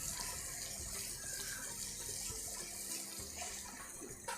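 Sugar syrup simmering in a pan on the stove, a faint steady hiss. The syrup is thickening to a sticky, gulab-jamun-syrup consistency.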